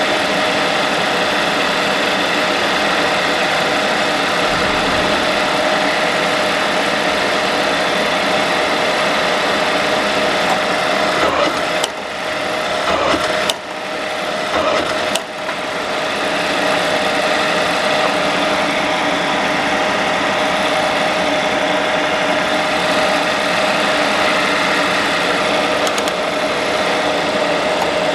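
Onishi RV300F four-spindle paper drill running steadily, its motor giving a constant hum with a clear steady tone. Around the middle, the sound dips briefly three times with sharp clicks.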